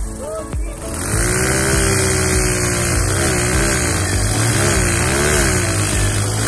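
Two small single-cylinder four-stroke commuter motorcycles, a Bajaj Platina and a TVS Star City, revving hard under load as they pull against each other on a tow rope. The engine note swells about a second in, then rises and falls in waves as the throttles are worked.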